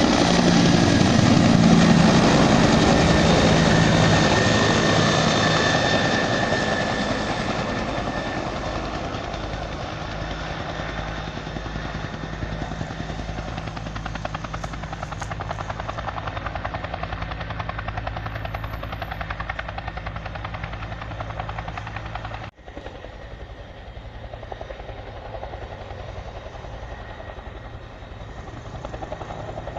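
Bell 212 helicopter running, its rotor giving an even rhythmic beat. It is loud at first, then fades over the first ten seconds or so and holds steady at a lower level. The sound cuts out briefly about twenty-two seconds in.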